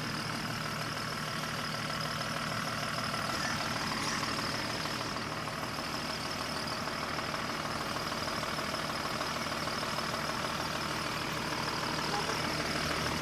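Engine of a mud-covered off-road 4x4 idling steadily, with no revving.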